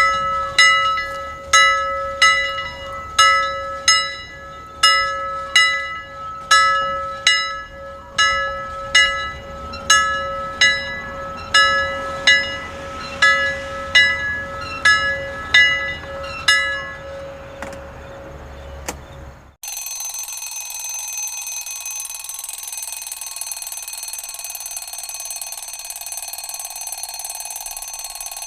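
A bell is struck over and over, a little more than once a second, each strike ringing and dying away over a steady hum. The strikes fade out, and about two-thirds of the way through a continuous electronic alarm tone starts abruptly and holds steady.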